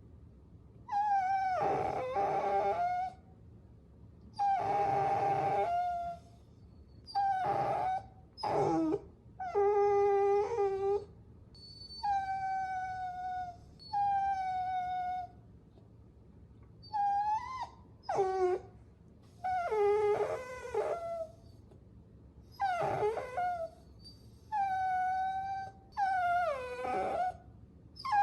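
Puppies whining: about a dozen high-pitched whines and cries in a row, each lasting a second or two with short pauses between, many of them falling in pitch at the end.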